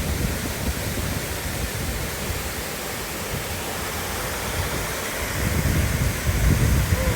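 Waterfall rushing steadily, a constant roar of falling water with low wind rumble on the microphone growing stronger near the end.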